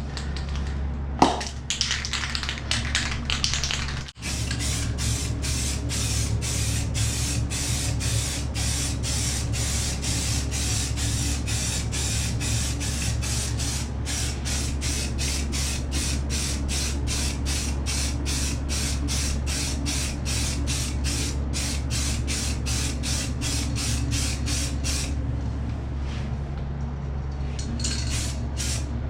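Aerosol spray can of undercoat paint hissing in a long run of short bursts, about three a second, as the paint is sprayed over a fibreglass bathtub patch. A sharp click comes about a second in.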